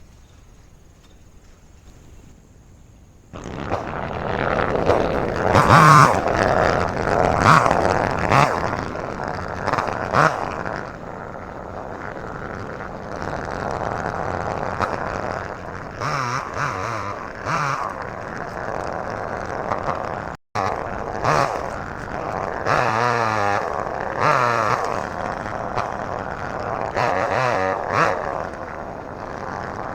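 Chainsaw running and cutting small trees, its pitch rising and falling as it revs up and down. It starts abruptly a few seconds in and cuts out for an instant about two-thirds of the way through.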